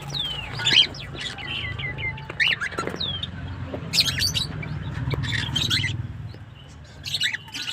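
Baby cockatiel calling: a run of short falling chirps and several harsher, raspy calls, over a low steady hum.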